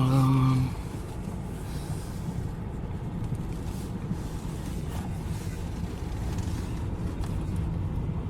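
Low, steady rumble of a Honda car's engine and cabin as it creeps into a parking spot and idles. A brief steady tone, about a second long, sounds right at the start.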